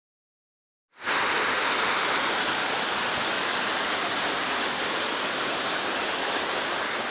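Waterfall rushing, a steady loud roar of falling water that starts suddenly about a second in.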